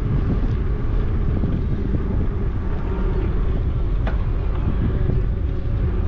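Wind rushing over the microphone of a camera on a moving bicycle, a steady low rumble from the riding speed, with a short click about four seconds in.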